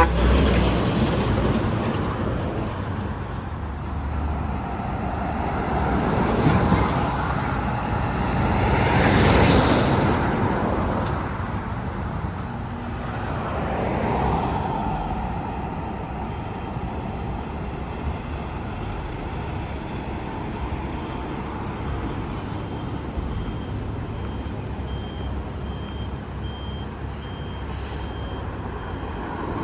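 Highway traffic, trucks among it: vehicles pass one after another, each rising and fading, with the loudest pass about nine to ten seconds in and a steadier stream of road noise in the second half.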